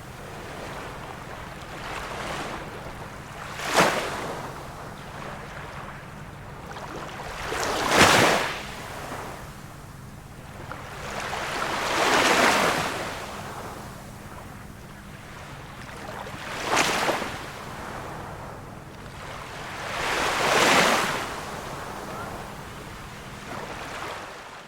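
Small waves of a calm sea breaking and washing in, five times at about four-second intervals over a steady hiss; some are short, sharp splashes and others longer, swelling washes.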